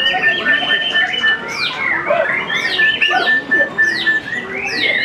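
White-rumped shama (murai batu) singing a rapid, varied song of quick downward-sweeping whistles over long held notes.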